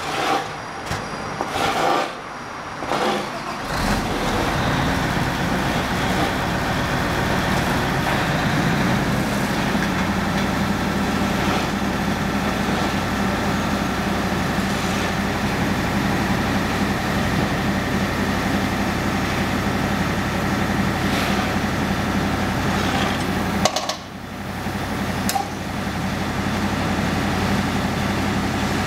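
Wirtgen W 1500 cold milling machine's 340 kW diesel engine running steadily, settling into an even run about four seconds in, with a brief drop in level a little before the end.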